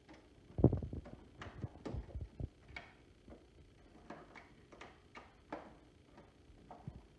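Power cord being wound onto a vacuum cleaner's cord hooks: a string of light knocks and ticks as the cord and plug tap against the plastic housing, the loudest knock about half a second in.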